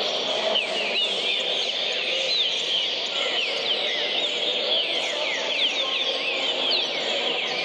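Green-winged saltator (trinca-ferro) singing at speed: a rapid, unbroken stream of short whistled notes, many of them quick falling slurs.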